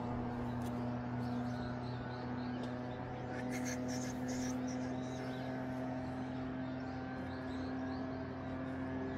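A steady mechanical hum with an even pitch, from an engine or a motor running, with faint high chirps over it.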